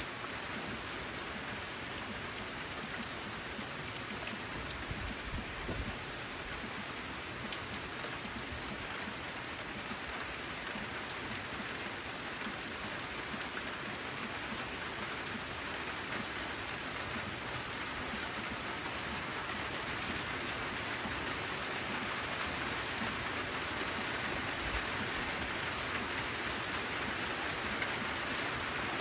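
Steady rain falling on a corrugated metal roof, with individual drops heard as fine ticks, growing slightly heavier toward the end. A brief low rumble comes about five seconds in.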